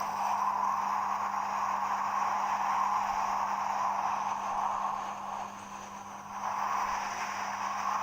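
Strong wind blowing in a steady rush, easing briefly about six seconds in before picking up again.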